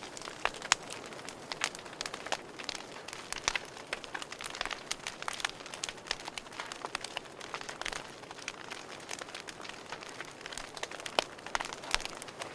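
Wood fire burning in a fireplace, crackling with frequent irregular sharp pops and snaps over a soft steady hiss.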